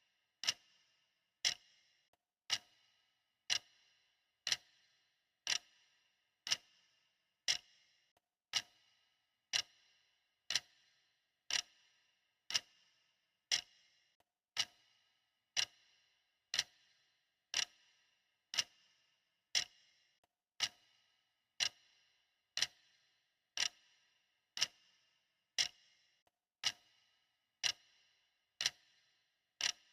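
Clock ticking steadily, about one tick a second, each tick a sharp click with a short ringing tail.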